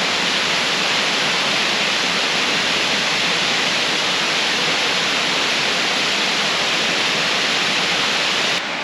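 Waterfall pouring into a pool: a steady rushing hiss of falling water, dropping a little just before the end.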